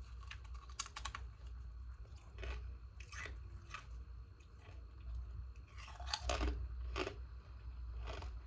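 Freezer ice being bitten and chewed close to the microphone: a string of separate crunches, the loudest about six seconds in, over a steady low hum.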